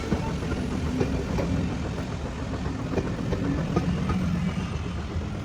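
Train running on the rails: a steady low rumble with scattered sharp clacks of the wheels over the track.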